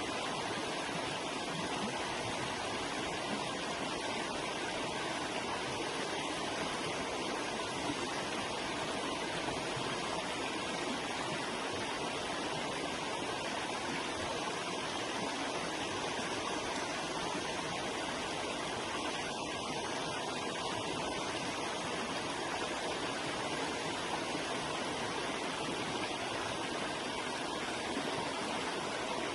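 Forest river flowing over rocks: a steady, even rush of water with no breaks.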